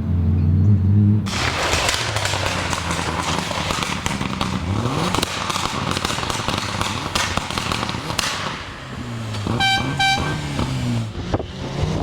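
Rally car engine revving and rising in pitch through the gears, with dense crackling and popping over it. Two short high steady tones sound close together near the end.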